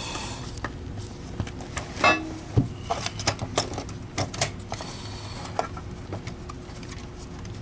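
Scattered light clicks and taps of plastic vacuum power-head parts and a hand screwdriver being handled during reassembly, with a brief squeak about two seconds in.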